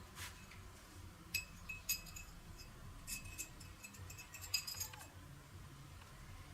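Small metal parts clinking and ringing briefly as they are handled: single light clinks about a second and a half and two seconds in, a short cluster around three seconds, and the loudest cluster of clinks about four and a half seconds in.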